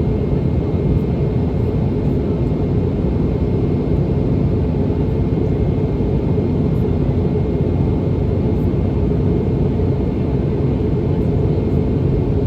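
Steady cabin roar of a Boeing 717 in flight, heard from inside the cabin: the rear-mounted Rolls-Royce BR715 turbofans and airflow making an even, deep rushing noise with a faint high whine.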